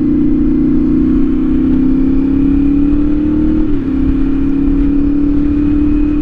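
CFMOTO 450SS parallel-twin engine with an aftermarket slip-on exhaust, running under way: a steady engine note that sinks slowly, with a brief break in the note a little under four seconds in before it settles again.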